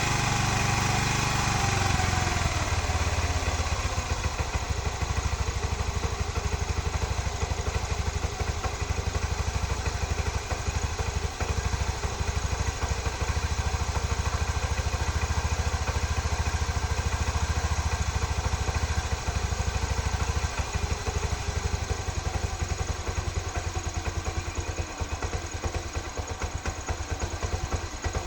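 TVS Star Sport ES motorcycle's single-cylinder four-stroke engine coming down from a light rev over the first couple of seconds, then idling steadily.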